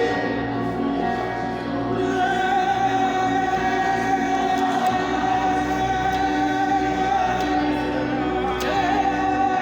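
Devotional worship music: a voice holds one long sung note over sustained chords.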